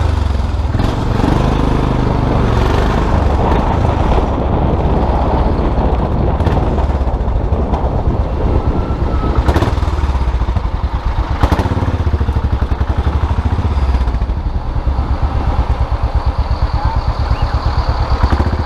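Custom motorcycle engine running on the move, with a steady low firing beat and a few sharp knocks along the way. The beat turns more even and separate in the last few seconds.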